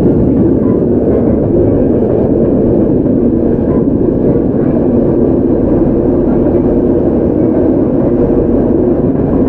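Hokuriku Railroad 03 series electric train, a former Tokyo Metro car with a Mitsubishi IGBT VVVF inverter, running along the line as heard from inside the car. It makes a steady, even rumble of wheels, motors and track.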